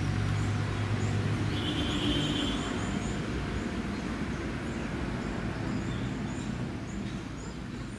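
Outdoor background noise with a low motor hum that fades after the first second or so, and small high chirps repeating throughout, like birds.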